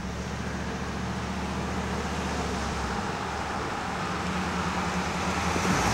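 Delivery truck's engine running as it approaches, a steady low hum growing louder towards the end.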